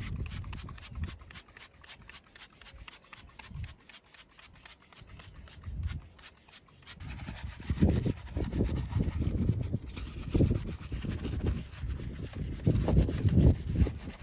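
Scrubbing on a car during a wash: rapid, even ticking, about five a second, for the first half, then irregular rubbing strokes.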